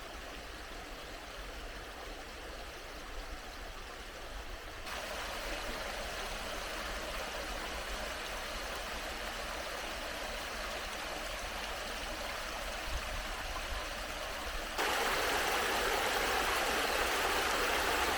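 Stream water running and rippling over stones in a steady rush. It steps up suddenly in loudness twice, about five seconds in and again near the end.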